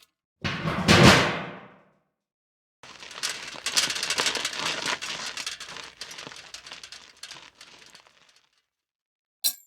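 Two separate foley effects: a sudden loud crash about half a second in that dies away over about a second, then after a short gap about five seconds of rapid, irregular clattering that thins out toward the end.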